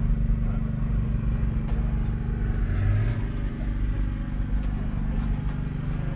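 Case CV210E excavator's 6.7-litre six-cylinder diesel engine running steadily, with a brief low surge about three seconds in.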